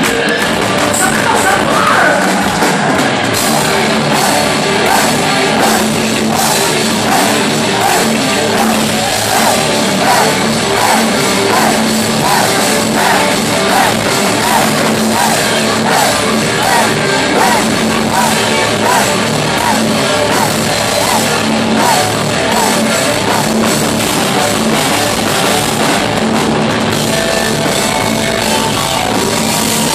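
Heavy metal band playing live and loud, with distorted electric guitar and drum kit; through the middle a fast, evenly repeating guitar figure rises and falls.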